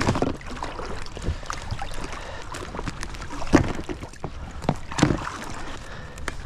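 Scattered knocks, clicks and rustles of hunters moving about and handling their gear, over a steady outdoor hiss. The two loudest knocks come about three and a half and five seconds in.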